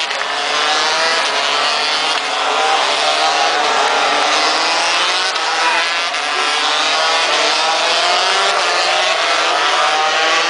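Several MotoGP racing motorcycles running at high revs, their overlapping engine notes rising and falling as they accelerate and shift.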